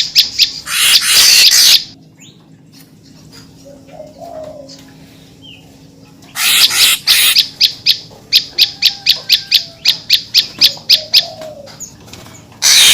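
Lure call of the deot bird ('murai papua'): trains of sharp, rapid high notes, about five a second, broken by loud harsh rasping bursts about a second in, near the middle and at the end, with a quieter stretch of faint chirps between.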